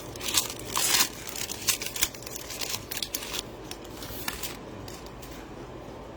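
Crinkling and tearing of trading-card pack wrappers and cards being handled, a quick run of sharp crackles and rustles that thins out after about four seconds.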